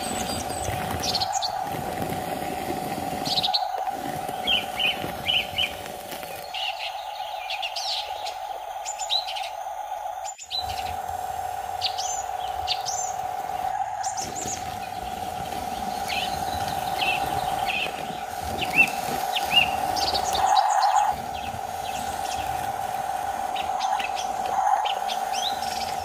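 Small birds chirping and twittering in short calls again and again, over a steady mid-pitched whine.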